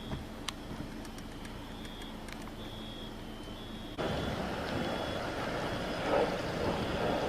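A high electronic beep repeating roughly once a second over a low hum, with a few sharp clicks. About four seconds in, a louder rumbling noise starts abruptly, and the beeping carries on more faintly beneath it.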